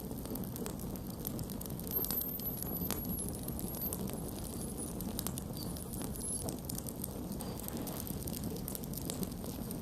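Campfire burning with a steady low rush of flames and frequent small crackles and pops of burning wood. A faint, high, wavering whistle runs for a few seconds in the middle.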